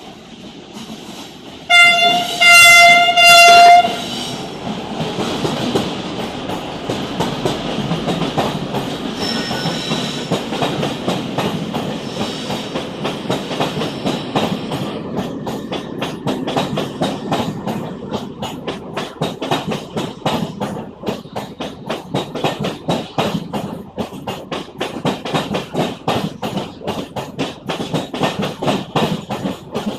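A Renfe train sounds a loud horn blast of about two seconds, a single note, about two seconds in, then passes with steady rolling noise and a fast, even clickety-clack of wheels over the rail joints that becomes sharper in the second half.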